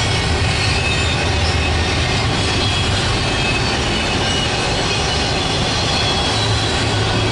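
Train running, a steady loud rumble with a low hum underneath.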